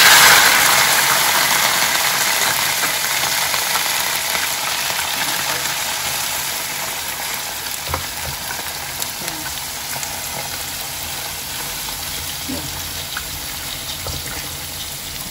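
Raw frog legs sizzling in hot oil in a nonstick wok. The sizzle is loudest at the start and slowly dies down, with a few light knocks of a spatula stirring them.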